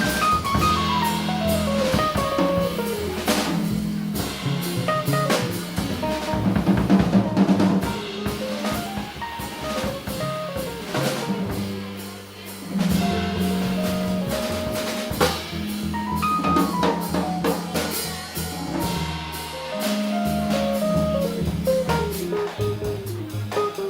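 Live jazz band playing an instrumental passage: a drum kit with rimshots and bass drum under fast, falling runs of notes over a sustained bass line. The band drops back briefly about halfway through and then picks up again.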